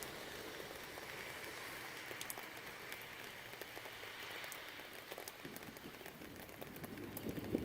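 Steady light rain with scattered drops tapping close to the microphone; a low rumble begins to swell near the end.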